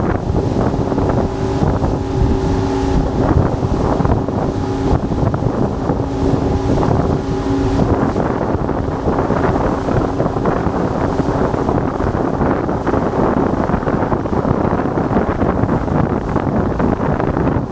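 Strong wind buffeting the action camera's microphone with a heavy, steady rumble. A faint humming tone comes and goes through it during the first half.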